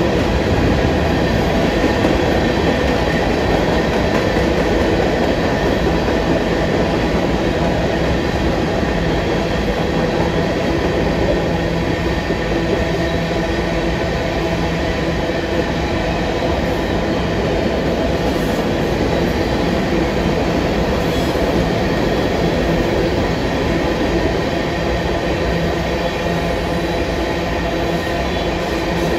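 Freight train of covered hopper cars rolling steadily past, a continuous rumble of wheels on the rails with faint steady high tones over it.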